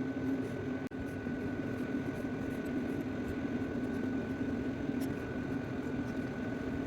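Steady mechanical hum with a low steady tone and a fainter high one, with a few faint clicks.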